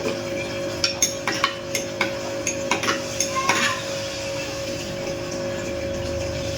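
A spoon clinking against a glass in a quick run of light clicks while milk is stirred, stopping after about three seconds.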